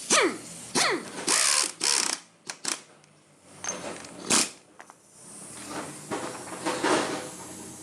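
Tool work on metal car suspension parts: a series of sharp metallic clanks and scrapes, with a longer rattling, ratchet-like passage in the second half.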